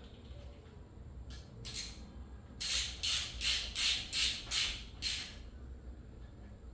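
A ratchet wrench worked back and forth on engine bolts: a couple of short strokes, then a quick run of about seven ratcheting strokes that stops about five seconds in.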